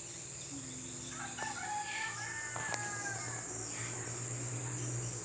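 A rooster crows once, a long drawn-out call about a second in, over a steady high chirring of insects.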